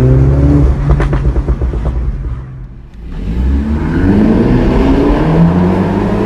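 2016 MINI John Cooper Works F56's turbocharged four-cylinder engine through its Remus exhaust. The engine runs hard with a few sharp cracks about a second in, goes quiet briefly as the throttle is lifted, then accelerates again with a steadily rising pitch.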